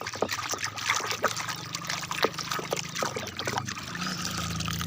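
Water trickling and splashing as toy vehicles are washed by hand, with many small knocks. A low steady hum comes in about three and a half seconds in.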